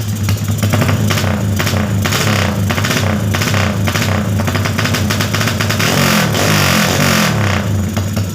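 Motorcycle with an aftermarket BSS 'keong' (snail-shaped) exhaust, showing off the deep, helicopter-like exhaust note. The throttle is blipped in a quick series of revs, then held up for about two seconds before dropping back to idle near the end.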